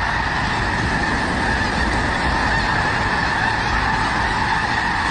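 A huge flock of snow geese calling all at once as they take off, a dense, steady din of overlapping honks.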